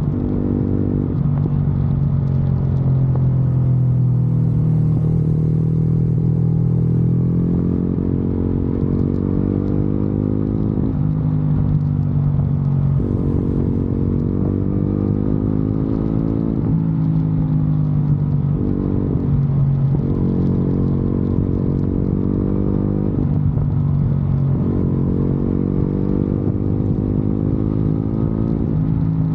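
Motorcycle engine under way. Its revs climb steadily and then drop sharply, over and over, as the bike pulls through gears and shifts.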